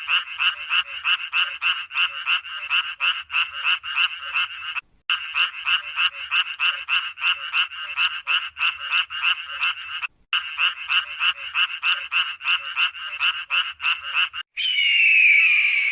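A small animal calling rapidly and evenly, about four short calls a second, in a croaking or chipping rhythm, broken twice by brief cuts. Near the end a different, harsher call with falling pitch takes over.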